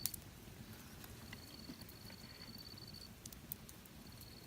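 An insect trilling at a steady high pitch in stretches of a couple of seconds, over a quiet background, with a few faint sharp clicks.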